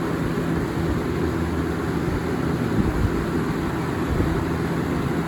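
1994–95 Lasko box fan running on high speed: a steady rush of moving air with an uneven, gusty low rumble.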